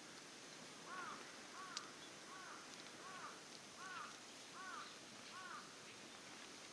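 A bird calling seven times in an even series, one short arched note about every two-thirds of a second, stopping just after halfway. A few faint sharp ticks are heard underneath.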